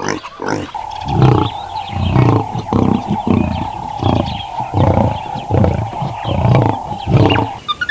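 A big cat roaring in a series of about eight deep, evenly spaced calls, over a steady high tone.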